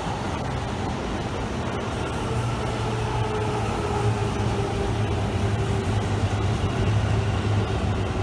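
JR commuter electric train running: a steady rumble of wheels on rail, with a low motor hum and a faint steady tone above it, slowly growing louder.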